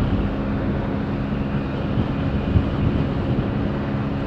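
Hero Splendor's 100 cc single-cylinder four-stroke engine running at steady high revs at about 90 km/h, with wind rushing over the microphone. One brief thump about two and a half seconds in.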